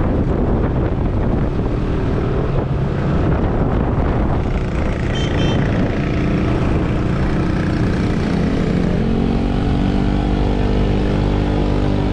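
Motorcycle engine running while riding, its pitch shifting with engine speed and settling to a steady tone near the end, over constant road and wind rumble.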